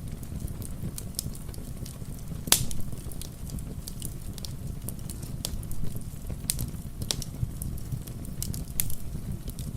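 Wood fire crackling in a fireplace, with irregular sharp pops, the loudest about two and a half seconds in, over a low steady rumble.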